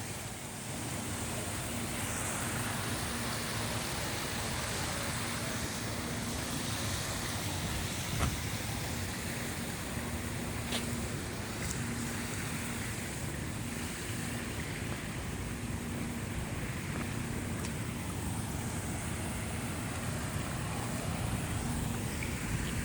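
Steady outdoor background noise: a continuous hiss, with a faint knock about eight seconds in.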